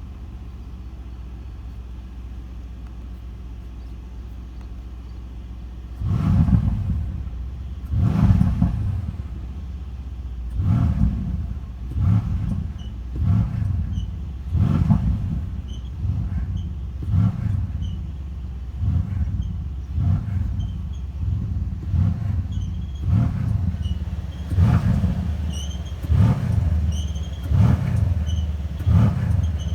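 Mercedes-AMG C63 S twin-turbo V8 with performance exhaust idling steadily, then blipped about every one and a half to two seconds from about six seconds in. In the later blips, short high squeaks come from the exhaust flaps: the recurring flap-squeak fault.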